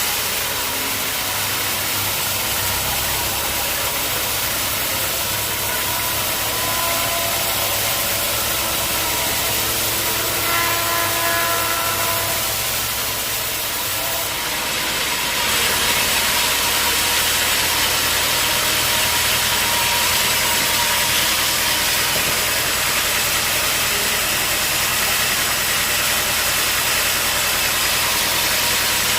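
Sawmill engine running steadily, with a brief high whine about ten seconds in; about halfway through the sound steps up, louder and hissier.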